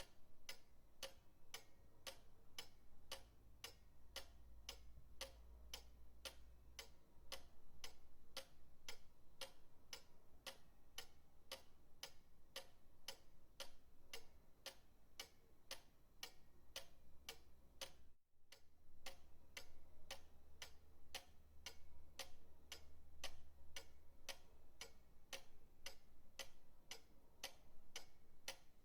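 Pendulum clock ticking steadily and evenly, about two ticks a second. The sound drops out for a split second about eighteen seconds in.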